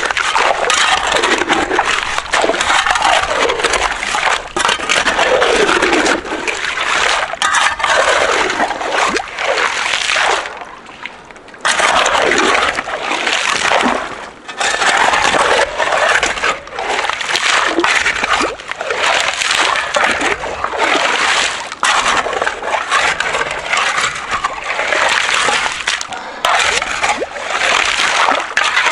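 Shovel digging a small pond in wet river gravel: stones scraping and crunching, and water splashing, in repeated strokes with a short pause about ten seconds in.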